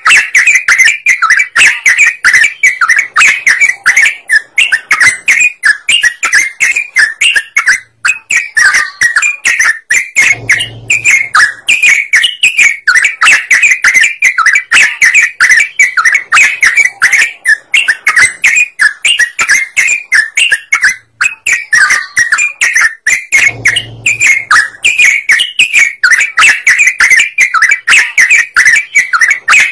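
Yellow-vented bulbul (trucukan) singing loudly and without pause, a fast unbroken run of chattering, chirping notes. Twice, about a third and three quarters of the way through, a dull low thump sounds under the song.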